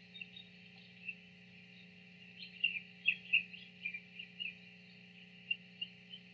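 Short, high chirps from small birds, most of them in a quick run in the middle, over a steady low hum.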